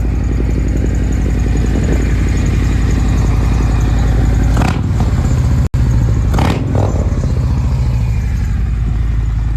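Harley-Davidson V-twin engine running steadily at idle just after being started, with two brief louder surges about halfway through.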